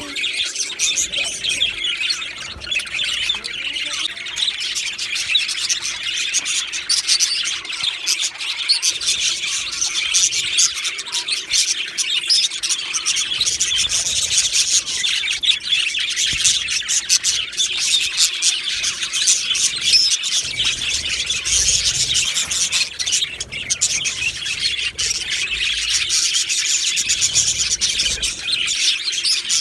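A flock of budgerigars chattering and chirping without pause, many birds calling over one another in a dense, steady chatter.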